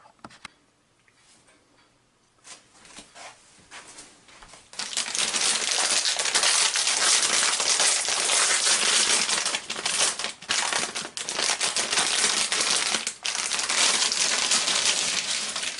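Crinkly packaging being crumpled and handled: a few light rustles, then about five seconds in a loud, almost continuous crinkling and crushing for about ten seconds, with brief pauses.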